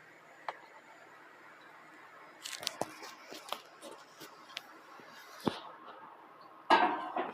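LEGO plastic pieces clicking and rattling as a built LEGO model is handled: scattered small clicks from about two and a half seconds in, a sharp knock a little later, and a louder clatter near the end.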